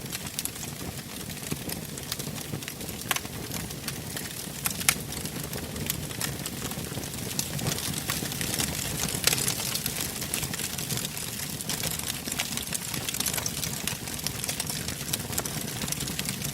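Wood fire burning in a fireplace: frequent sharp crackles and pops, one louder pop about five seconds in, over a steady low rumble of the flames.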